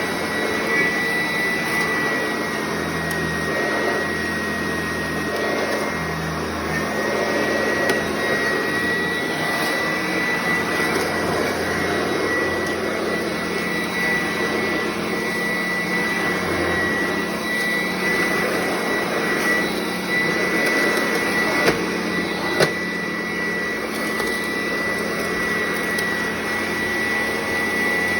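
Sanitaire upright vacuum cleaner running steadily, its motor giving a constant high whine over a rushing air noise, with a couple of sharp ticks about three-quarters of the way through.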